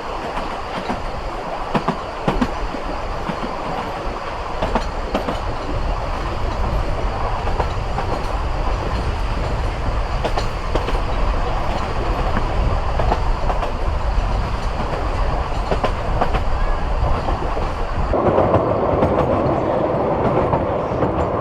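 Narrow-gauge steam railway carriage running along the track: a steady rumble with frequent clicks of the wheels over the rail joints. About eighteen seconds in the sound turns duller, losing its high end.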